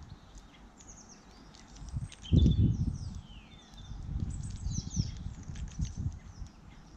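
Small garden birds chirping and twittering, with a few quick downward-sliding calls. Low thumps and rumbling close to the microphone are loudest about two and a half seconds in.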